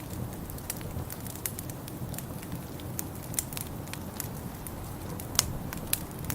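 Wood fire crackling in a fireplace, with irregular sharp pops (the loudest about five seconds in) over a steady low rumble.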